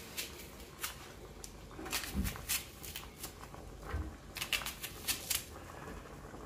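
Chef's knife slicing through an onion held in the hand: crisp cutting clicks in two flurries, about two seconds in and again from about four and a half seconds, with a couple of soft thuds as slices drop into the pot.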